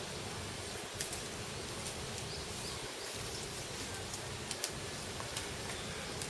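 Steady outdoor background noise with a few faint, high bird chirps a couple of seconds in and several sharp clicks scattered through.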